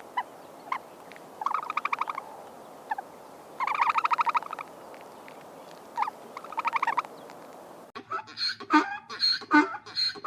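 An animal's rattling calls, four of them, each a rapid string of pulses under a second long and led by a single click. Plucked-string music comes in near the end.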